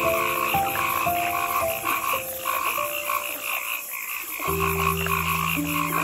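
Frogs calling in a steady, rapidly pulsing chorus of croaks, over soft piano notes.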